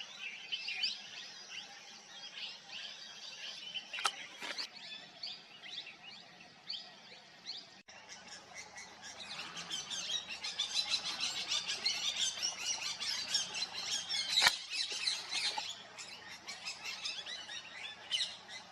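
Flock of plum-headed parakeets calling: many short, high-pitched calls, sparse at first, then a dense run of overlapping calls through the middle that thins out near the end. Two sharp clicks cut across the calls, one near the start and one in the middle.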